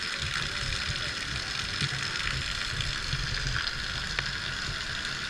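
Heavy rain falling in a steady hiss, with an irregular low rumble underneath.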